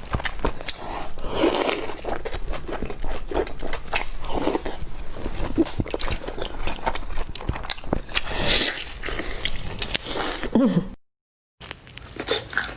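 A person eating close to the microphone: wet chewing and biting, with many sharp clicks and crunches. The sound cuts out briefly near the end.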